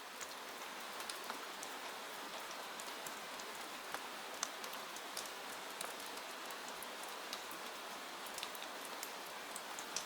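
Steady rain falling, an even hiss with many scattered sharp ticks of individual drops through it.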